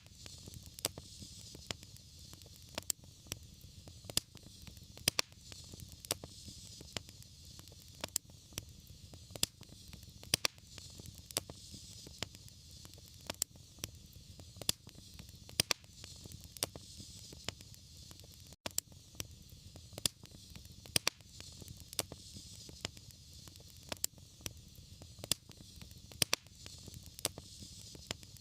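Fire in a fireplace crackling: sharp irregular pops, about one or two a second, over a steady soft hiss and low rumble. There is a split-second dropout about two-thirds of the way in.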